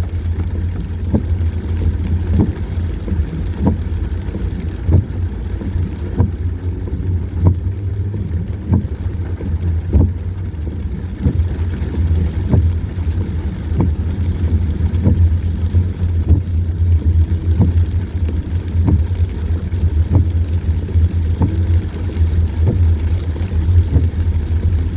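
A car's engine and road noise heard from inside the cabin on a dash cam while it drives through a rainstorm: a steady low rumble with frequent short taps.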